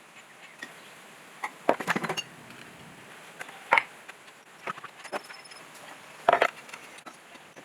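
Handling of tools and parts during workshop work: a few scattered knocks and clatters, with the loudest cluster a little after six seconds.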